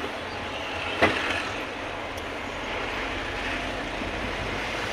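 Steady running noise of a truck on the road, heard from inside the cab, with one short sharp knock about a second in.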